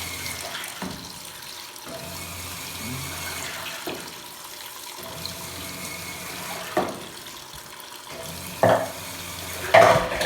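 Water pouring into a top-load washing machine's tub as it fills, with a low motor hum that cuts in and out every couple of seconds. Near the end come two sudden loud knocks.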